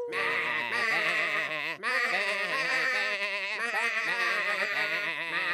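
Several cartoon voices singing together in a buzzy, warbling rehearsal, their wavering pitches clashing rather than in close harmony.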